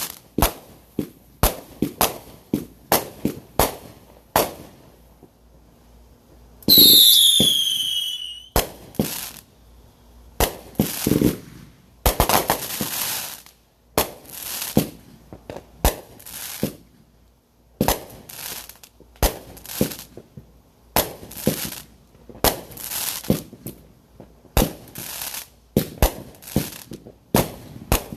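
Consumer fireworks going off in rapid runs of sharp pops and crackling. About seven seconds in, a loud piercing whistle falls in pitch for a second or so.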